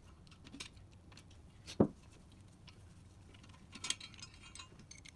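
Metal parts and tools clinking and clattering while being handled, with one solid knock about two seconds in and a cluster of clinks near the end.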